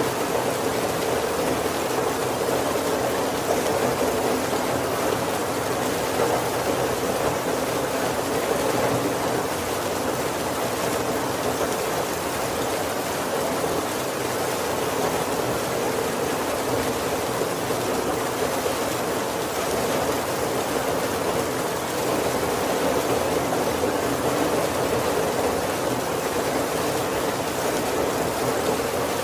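Heavy rain falling steadily on a roof, an even hiss of rain with no thunder.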